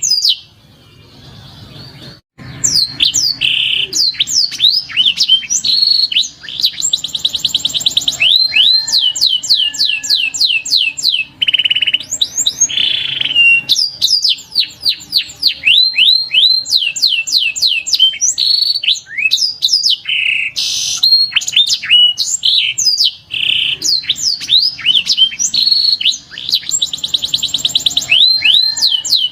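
Domestic canary singing a long, continuous song of fast trills and runs of quick down-sweeping notes, with a short lull near the start.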